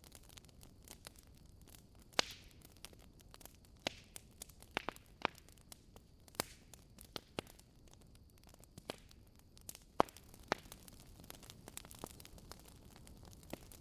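Wood logs burning in a fireplace, crackling with irregular sharp pops over a low hiss; the loudest pops come about two seconds in and near the middle.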